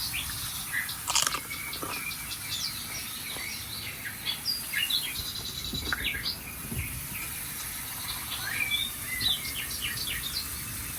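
Several small songbirds chirping and calling over one another in quick, short notes, over a steady high hiss.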